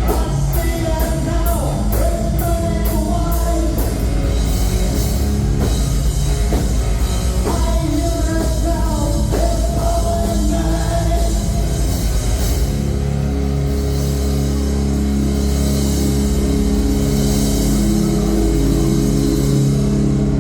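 Live heavy rock band playing loudly: drums and cymbals, distorted electric guitars and a singing voice. About twelve seconds in, the drums stop and the guitars hold sustained ringing chords.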